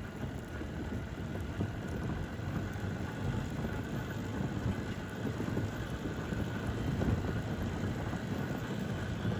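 Steady low rumbling noise with wind buffeting the microphone, and a faint steady high whine running under it.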